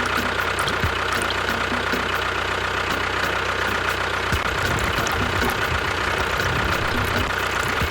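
A small motor running steadily with a constant whine and a fast low chatter, and scattered light ticks.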